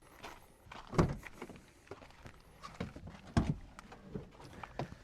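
Gear being handled and shifted about: scattered light knocks and clicks, with two louder thumps, about a second in and about three and a half seconds in.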